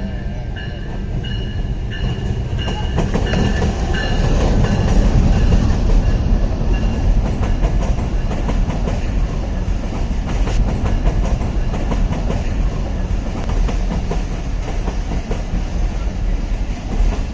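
Pakistan Railways train arriving and rolling along the station track: a loud rumble that builds over the first few seconds, with a high steady squeal that fades out after about four seconds, then the clickety-clack of wheels over the rail joints.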